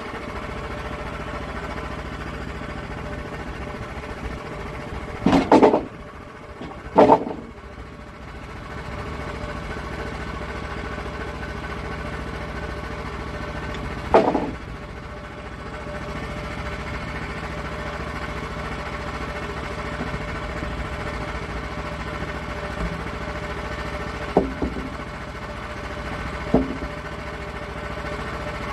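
Small engine of a log-milling setup running steadily while an oak log is cut. Several loud knocks or clanks stand out over it: a close pair about five seconds in, one at seven seconds, one at fourteen, and two lighter ones near the end.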